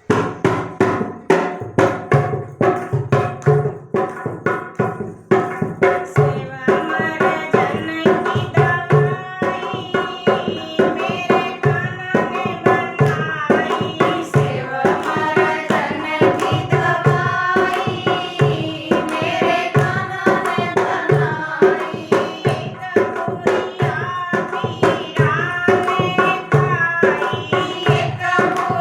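Hindi devotional bhajan: hand drums beat a steady rhythm under held melody tones, and from about six seconds in a woman sings the bhajan.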